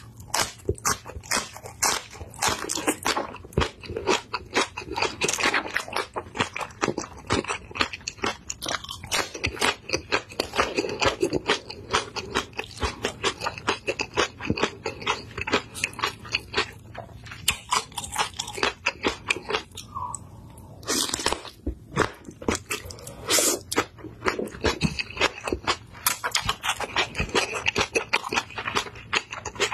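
Crunching and chewing as a raw green chili pepper coated in chili kimchi seasoning is bitten and eaten, with dense crisp crackles in runs and a short lull about twenty seconds in.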